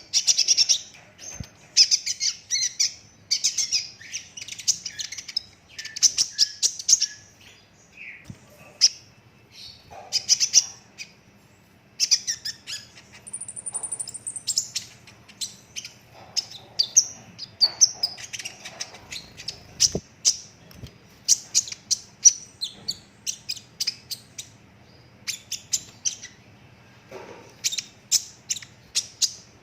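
A young kolibri ninja sunbird singing at full tilt: dense, rapid runs of sharp, high chirps and trilled rolls with only brief pauses, and one thin, high whistled note about halfway through.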